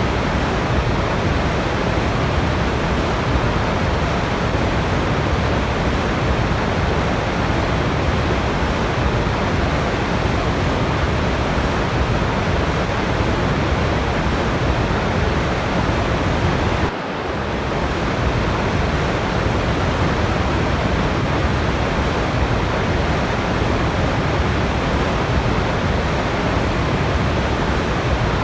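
Steady, even rush of a waterfall, with a brief drop in level about seventeen seconds in.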